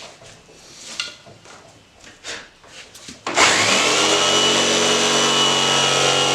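A few light handling knocks, then about three seconds in an electric power saw switches on. Its motor spins up with a rising whine and settles to a steady high-pitched run, ready for a rip cut.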